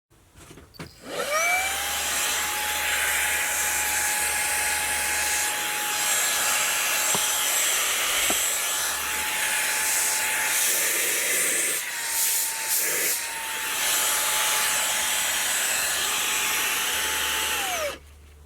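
Xiaomi Mi Vacuum Cleaner Mini handheld vacuum switched on about a second in, its motor whine rising quickly to a steady high pitch over a rush of air. The pitch wavers and the sound dips briefly past the middle. Near the end it is switched off and the whine falls away.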